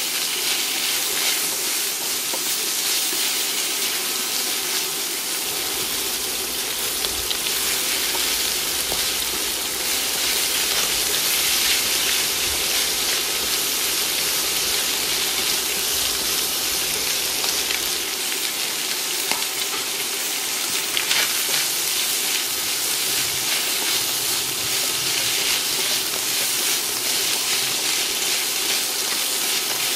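Shredded chicken, chopped meat and sliced red onion sizzling steadily in an oiled nonstick wok as a spatula stirs and tosses them: the sauté stage of a stir-fry.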